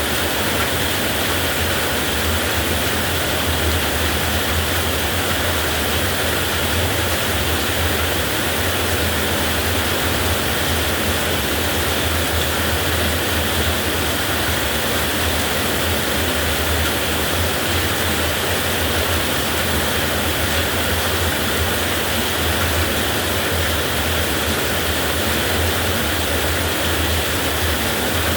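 Heavy rain falling in a steady, unbroken downpour, with no thunder claps in this stretch.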